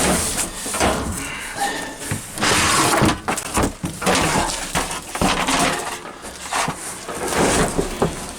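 Irregular clattering and rustling of objects being handled, with some clinks.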